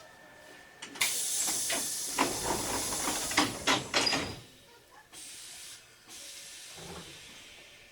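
Compressed air from the Hankyu 3300 series train's pneumatic equipment hissing loudly for about three seconds, with several clunks, starting about a second in. A fainter hiss and a low thump follow.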